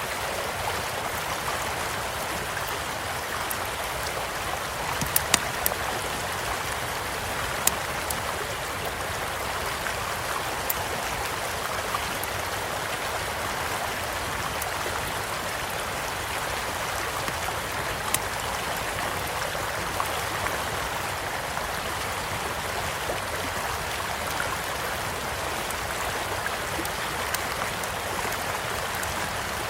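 A gently flowing stream making a steady rush, with a campfire crackling over it in scattered sharp pops. The loudest pops come in a quick cluster about five seconds in.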